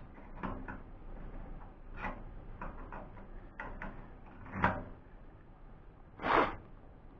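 Scattered clicks and knocks of metal parts being handled as aluminium legs are fitted to a small wood-burning stove, with a louder brief scrape about six seconds in.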